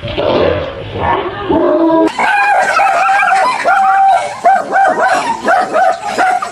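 A dog barking and yipping. About two seconds in, a fast run of short, high yelps starts, several a second.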